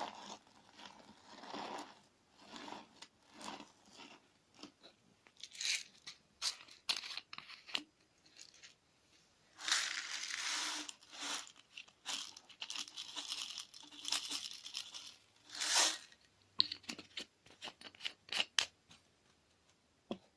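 Sticky clear slime mixed with crunchy sand being squeezed and worked by hand, giving irregular crackles, sticky pops and gritty crunches.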